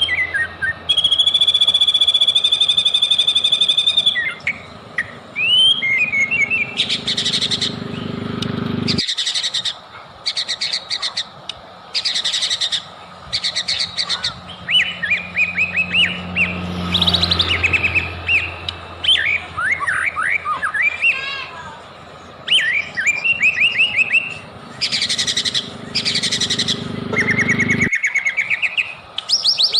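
White-rumped shama singing a long, varied song: a held whistled note near the start, then loud bursts of rapid repeated notes and quick rising and falling whistles.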